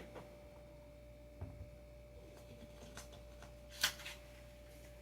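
Quiet handling of skateboard hardware: a few light clicks and knocks, the sharpest just before four seconds in, over a faint steady hum.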